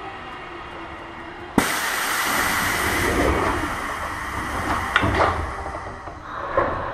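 Eidan 6000-series electric train: a steady low hum, then about a second and a half in a sudden loud hiss of compressed air that fades over the next few seconds. A few sharp knocks follow near the end.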